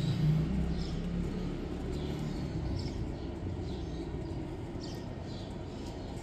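Outdoor ambience: small birds chirping briefly now and then over a low, steady rumble.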